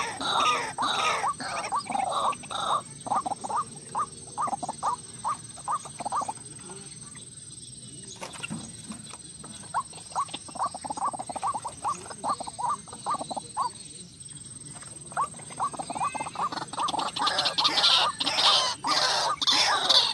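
White-breasted waterhen calling: a fast run of repeated notes, about four a second, that eases off twice for a moment, then swells into a denser, louder jumble of calls near the end.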